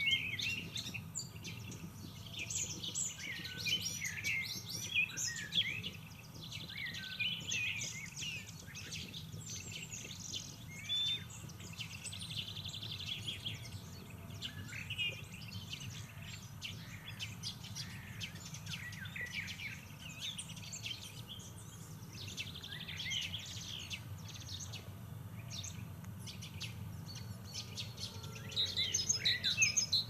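Several birds chirping and singing in quick, overlapping phrases, with a busier flurry of calls near the end, over a steady low hum.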